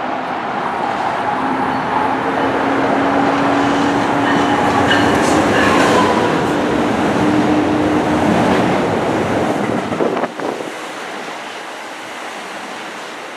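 NJ Transit train running by at the station, a loud rumble with a steady humming tone; the noise drops off abruptly at about ten seconds, leaving a quieter rumble.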